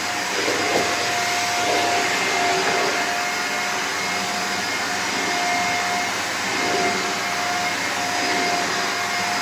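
Shark Lift-Away NV340 upright vacuum cleaner running steadily over a rug, a constant rushing of suction with a steady whine from the motor.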